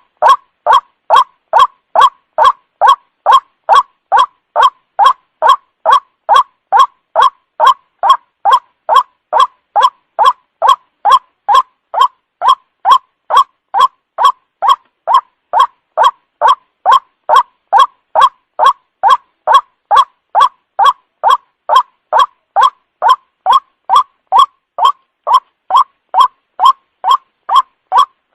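White-breasted waterhen (ruak-ruak) calls repeated without a break, about two short croaking notes a second, as a looped lure call for trapping the birds.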